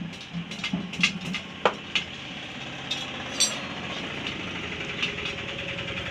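Several sharp metal clinks and taps in the first half, then a motor engine idling steadily from about halfway.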